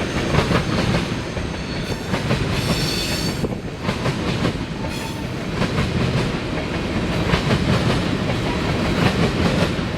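CSX freight train cars rolling past, wheels clattering over the rails, with a brief high wheel squeal about three seconds in.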